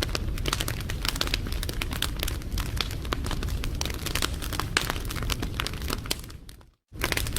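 Wood fire crackling and popping over a low rumble of flames. About six seconds in it fades out to a brief silence, then comes back abruptly, like a loop join in the recording.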